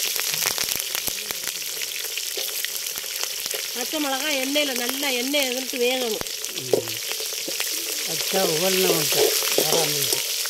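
Green chillies and garlic sizzling and crackling in hot oil with mustard seeds in an aluminium pan, a steady hiss with many small pops, while a metal slotted ladle stirs and scrapes against the pan.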